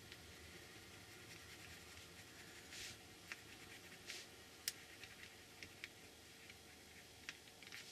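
Faint scratching of a Stabilo All pencil drawing on paper, with a few small scattered ticks and short strokes.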